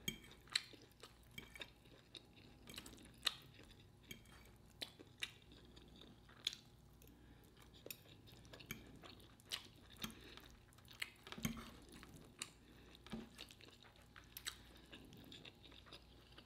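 Close-miked chewing: quiet, irregular wet mouth clicks and smacks, one or two a second, with a duller low knock about two-thirds of the way through.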